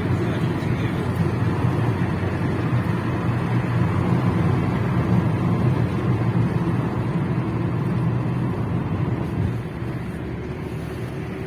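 Steady engine and road noise of a moving car, a low hum that gets a little quieter near the end.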